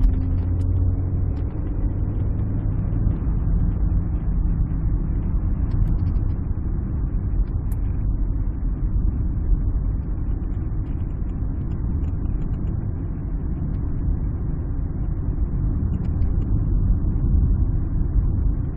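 Alfa Romeo 156 on the move: a steady low rumble of engine and road noise. A faint falling tone fades out in the first couple of seconds.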